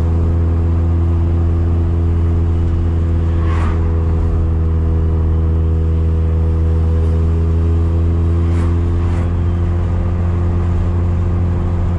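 Big-turbo rotary engine of a Mazda RX-7, heard from inside the cabin, droning at a steady, unchanging pitch while cruising at an even speed.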